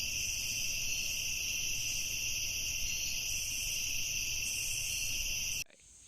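Rainforest insects droning in a steady, high-pitched chorus that cuts off suddenly about five and a half seconds in.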